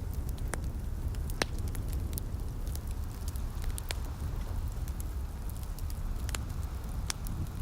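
Wood fire in a fireplace crackling, with scattered sharp pops, a few of them louder, over a steady low rumble and soft rain hiss.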